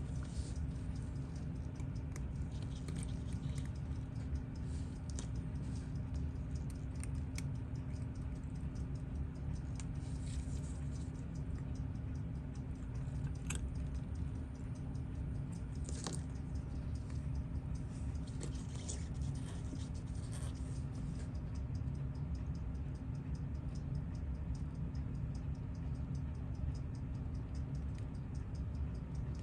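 Small watchmaker's tools and tiny watch parts being handled during disassembly of a quartz watch: scattered faint clicks and scratches, two sharper clicks about 13 and 16 seconds in, over a steady low hum of boosted room noise.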